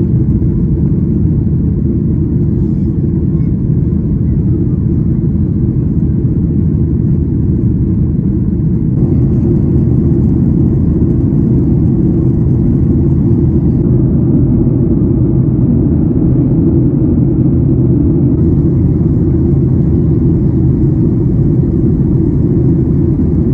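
Steady, loud rumble of a Boeing 737-800's engines and rushing air, heard inside the passenger cabin.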